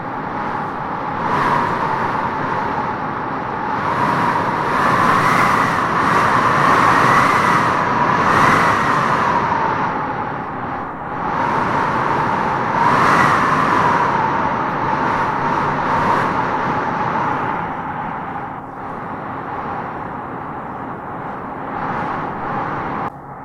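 Wind howling in gusts, a whistling tone rising and falling over a steady rush, with the strongest gusts in the first half and another about halfway through. The level drops suddenly just before the end.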